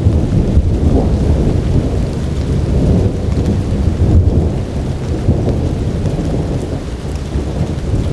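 Thunderstorm: a continuous low rumble of thunder under steady heavy rain.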